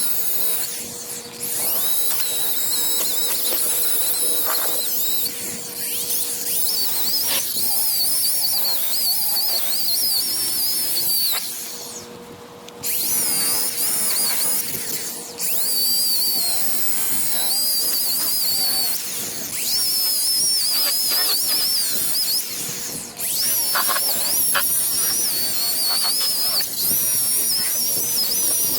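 DeWalt electric buffer running against a boat hull, with a high, wavering motor whine that drops away briefly about twelve seconds in.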